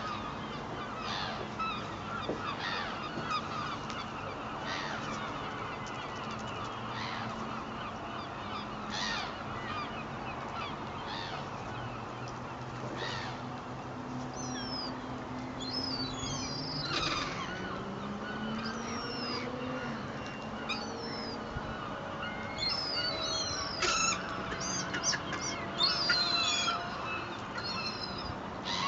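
A flock of seagulls calling, with repeated short harsh cries that come thicker in the last few seconds. Beneath them a low engine drone runs steadily and rises in pitch about halfway through.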